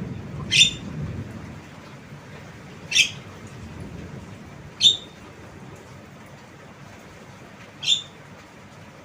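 Javan myna giving four short, sharp, high-pitched calls, each a fraction of a second long, spaced two to three seconds apart.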